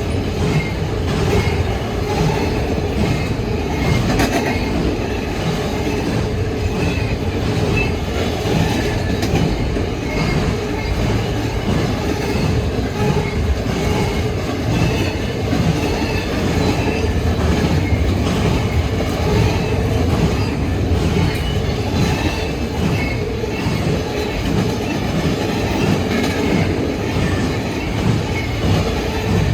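A train's cars rolling past steadily, wheels clattering over the rails in a continuous rhythm, with a faint high wheel squeal.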